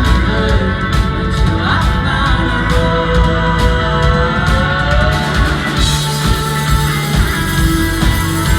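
A rock band playing live, with guitars, bass and drums under sustained, gliding notes; the sound grows fuller in the highs about six seconds in.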